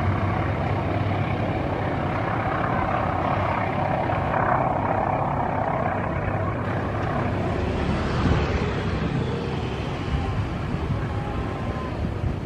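Diesel train running steadily with a continuous low engine rumble and a droning tone that swells for a few seconds near the middle.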